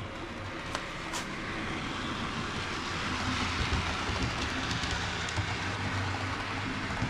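HO-scale Bachmann GP40 model locomotive running on its track: a steady motor whir with wheels rolling on the rails, getting louder about three seconds in. Two sharp clicks about a second in.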